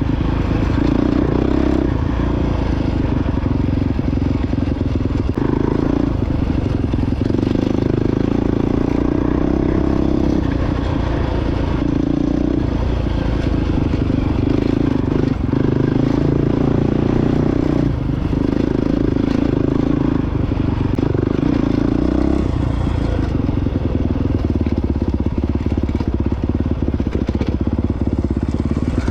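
Honda CRF450X dirt bike's single-cylinder four-stroke engine running under way on an off-road trail, its note easing and picking up again every few seconds with the throttle.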